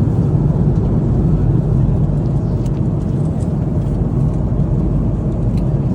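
Loud, steady roar inside an airliner cabin: jet engine and airflow noise, deep and even.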